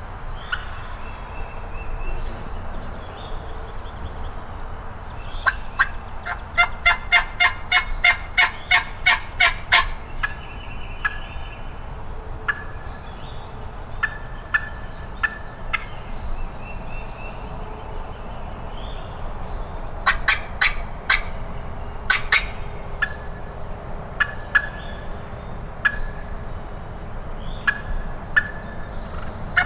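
Wild turkey yelping: a fast run of sharp, evenly spaced yelps at about four a second, a second shorter run later, and scattered single notes in between.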